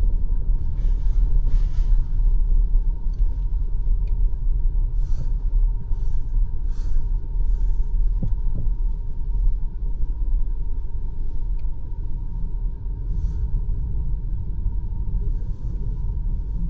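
BMW X5 M50i's twin-turbo V8 and tyres on snowy roads, a steady low driving rumble, with short hissing sounds coming and going every second or two.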